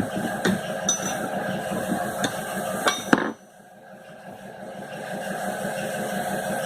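Sewing machine's electric motor running with a steady hum and metallic clinks and knocks; a little over three seconds in it cuts out, then a hum builds back up as it spins up again.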